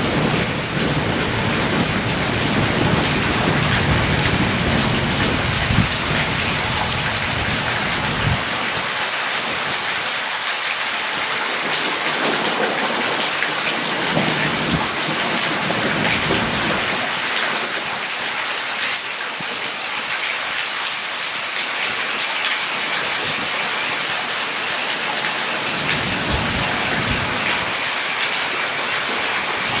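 Heavy rain falling steadily in a thunderstorm. Low rolling thunder rumbles through the first several seconds and returns briefly around the middle and near the end.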